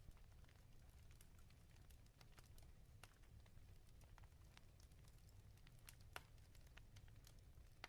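Wood fire crackling in a fireplace: faint, scattered pops and snaps, one sharper pop about six seconds in, over a low steady rumble.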